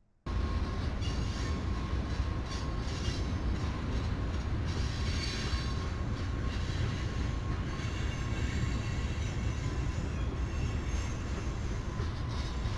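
Trains rolling past on a flyover and on the tracks beneath it: a steady heavy rumble of steel wheels on rail, with a thin wheel squeal over it. It starts abruptly about a quarter second in.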